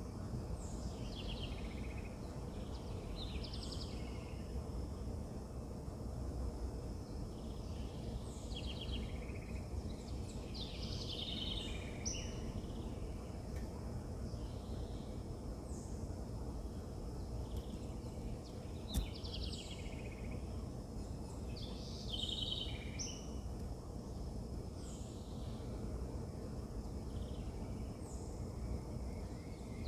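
Wild birds chirping and calling in short repeated phrases over a steady low rumble of outdoor background noise, with one sharp click about two-thirds of the way through.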